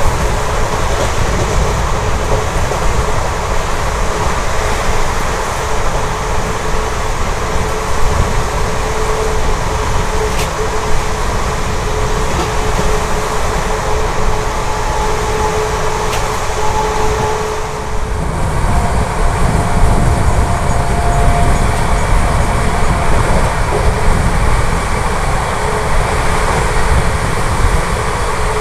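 Express passenger train running at speed, heard from an open coach door: a steady roar of wheels on rail and rushing air, with a few brief clicks.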